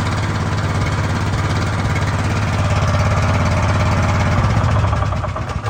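The towed backhoe's small single-cylinder engine running steadily with a fast, even firing beat, just brought back to life after water had seized its cylinder.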